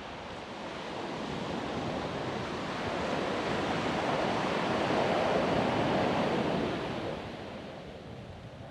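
Ocean surf breaking on a beach: one wave swells to its loudest about five seconds in, then washes out and fades.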